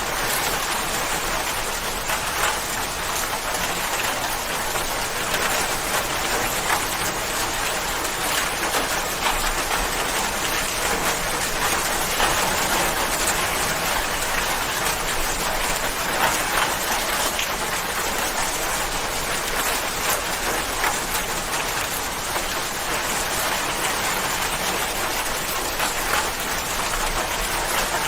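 Steady rain falling and pattering on a surface, with many small drops heard individually over the steady hiss.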